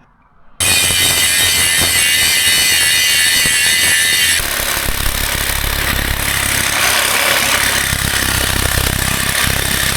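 Loud power tool working on the old frame bracket's rivets. It starts abruptly about half a second in and changes in character about four seconds in.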